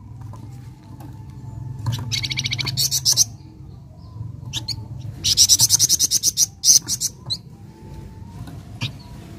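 Flamboyan songbird singing in rapid trills of high, fast-repeated notes, about ten a second. Two long trill phrases come about two seconds in and about five seconds in, with short single chirps between them, over a steady low hum.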